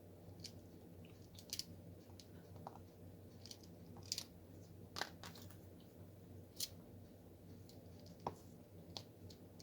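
Faint, scattered clicks and taps of a diamond painting drill pen picking up resin drills and pressing them onto the canvas, about one every second, at irregular spacing.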